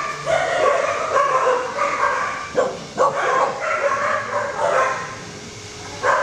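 Many dogs barking and yelping over one another in a kennel, a continuous overlapping din.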